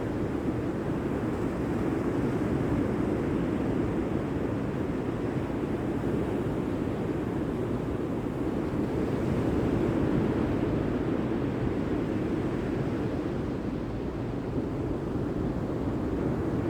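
Sea surf washing in a steady rush that swells gently now and then.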